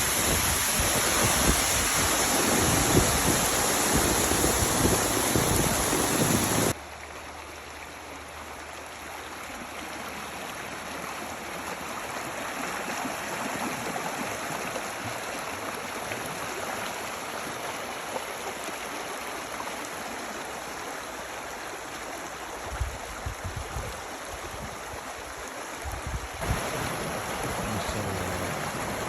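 Rushing water from rain runoff, a stream flowing steadily. The sound drops abruptly to a quieter flow about seven seconds in and grows louder again near the end.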